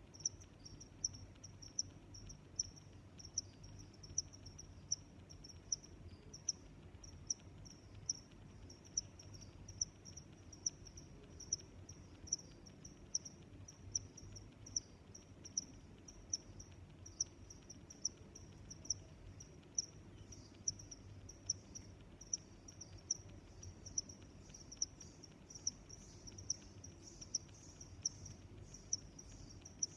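Crickets chirping in a steady rhythm of evenly spaced, high-pitched chirps, over a faint low background hum.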